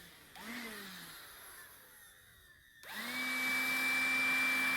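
Makita DCL180Z 18V cordless vacuum's motor winding down with a falling whine. About three seconds in it is switched on again and runs steadily with a high whine and rushing air.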